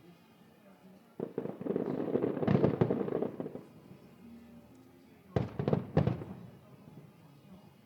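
Aerial fireworks bursting: a dense, crackling cluster of bursts from about a second in, lasting about two seconds, then a few sharp bangs a couple of seconds later.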